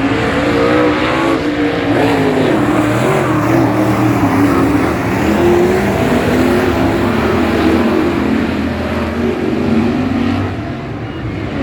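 Several speedway race car engines revving and running together around the track, their pitches rising and falling as the cars race through laps.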